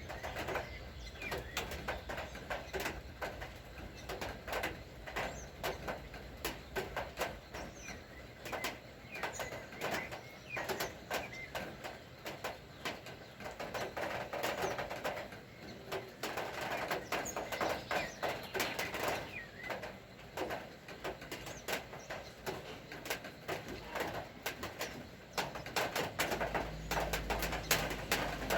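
Rain falling, heard as a dense, irregular stream of drip clicks, with birds calling now and then. A low rumble comes in near the end.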